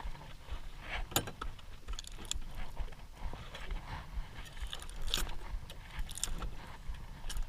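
Scattered knocks and clatters of gear being handled aboard a small fishing boat, a handful of sharp ones about a second in and again after five seconds, over a steady low rumble.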